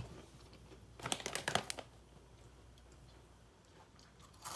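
A short cluster of sharp crackles and clicks about a second in, from snack packets and snacks being handled, over a quiet room.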